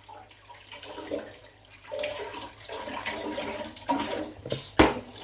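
Water splashing and sloshing as raw tripe is washed by hand, with two sharp knocks near the end.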